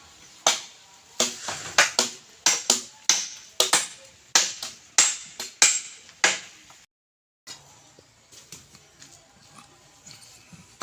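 Rapid hammer blows from roof construction, often in pairs, about two or three a second. They stop before 7 seconds, a brief dropout follows, and after that only faint scattered knocks remain.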